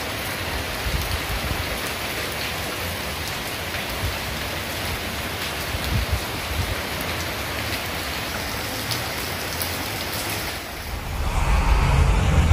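Heavy rain falling steadily, a dense even hiss with fine pattering drops. Near the end the rain sound drops away and a louder sound with a deep low end begins.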